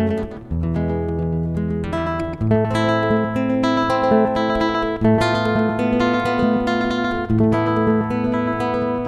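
Acoustic guitar playing an instrumental piece: plucked chords over sustained bass notes, the bass changing about every two to two and a half seconds.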